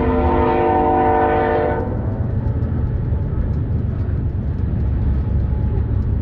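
Train horn blowing a steady chord that cuts off about two seconds in, followed by a low rumble.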